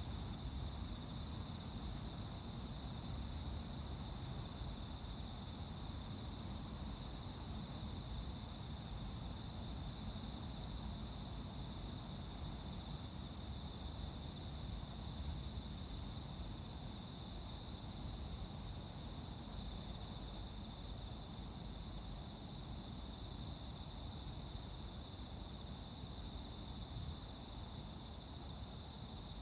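Chorus of crickets and other insects, a steady unbroken shrill trill at two pitches, over a faint low rumble.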